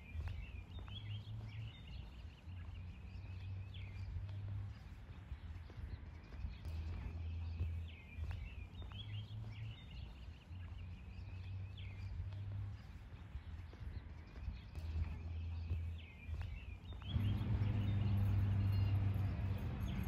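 Bird chirps over low humming tones, the same chirping phrase recurring about every eight seconds as in a loop; the low tones grow louder about three-quarters of the way through.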